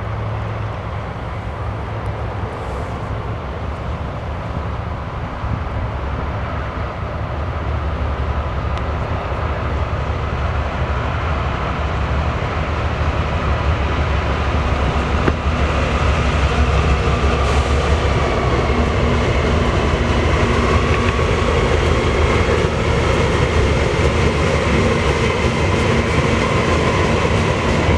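BNSF grain train rolling past: a steady rumble of diesel locomotives and wheels on the rails, growing louder over the first half and then holding.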